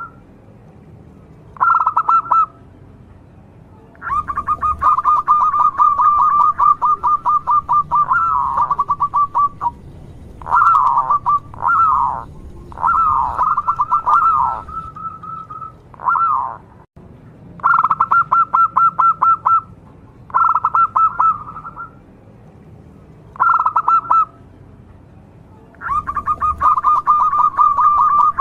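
Zebra dove (perkutut) cooing: loud bouts of rapid, pulsing trilled coos, some about a second long and some running several seconds, with short pauses between.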